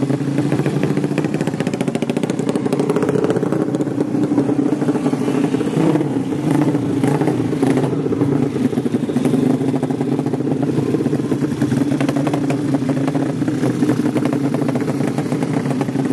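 200cc drag-racing motorcycle engines running loudly and steadily, with little change in pitch.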